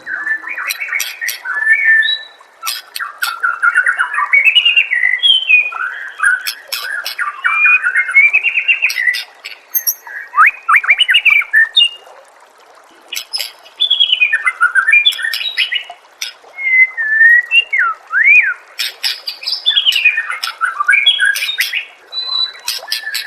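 White-rumped shama (murai batu) singing: fast, varied whistled phrases with sharp clicking notes, pausing briefly about halfway through.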